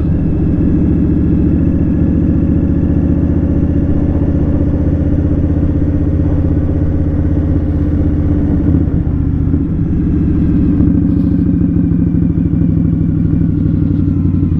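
Indian Scout Sixty's liquid-cooled V-twin engine running at a steady cruise while being ridden. Its note dips briefly about nine seconds in, then settles again.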